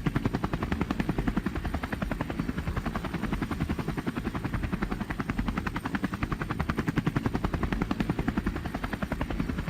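Helicopter rotor sound, a steady rapid chopping beat.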